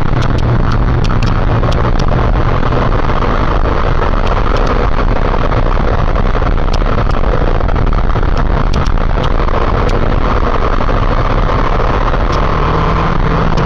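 Motorcycle riding at steady speed: a steady engine drone under heavy rushing noise, with scattered small clicks.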